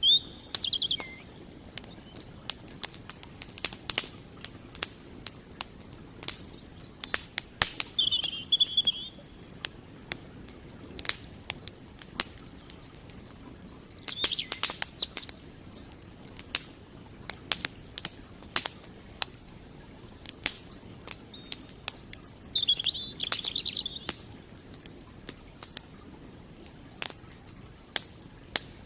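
Wood campfire crackling, with frequent sharp, irregular pops and snaps, over the steady gentle rush of a flowing creek. A small bird chirps briefly four times.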